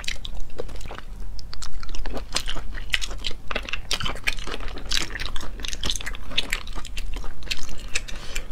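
Close-miked chewing and wet mouth clicks of someone eating sea snail meat picked from the shell, with many irregular sharp clicks.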